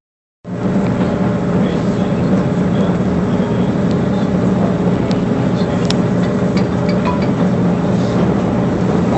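A vehicle running steadily, a loud drone with an even low hum, with a few faint clicks about six seconds in.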